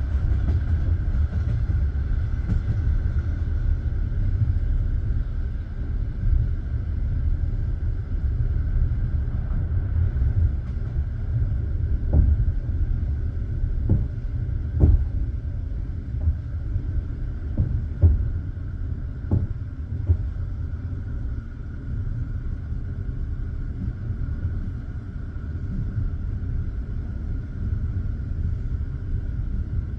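Passenger train carriage rolling along the track: a steady low rumble of the wheels and running gear under a faint steady whine, with a handful of sharp, irregularly spaced wheel knocks through the middle.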